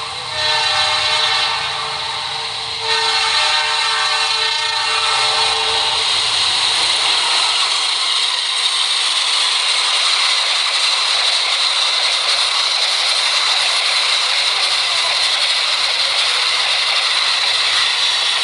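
Train horn sounding a held chord, twice, for the first five seconds or so, then the steady rushing noise of the Gajayana express train running past on the rails.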